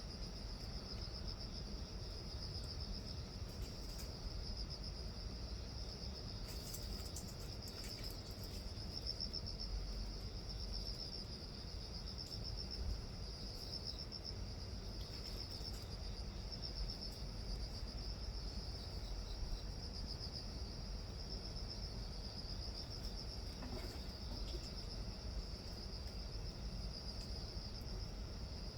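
Insect chorus of crickets: a continuous high-pitched trill, with a low rumble underneath and a few faint clicks.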